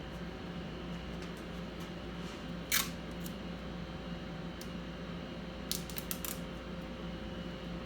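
Small sharp clicks over a steady low hum: one short scrape about three seconds in, then a quick run of four or five clicks near the six-second mark.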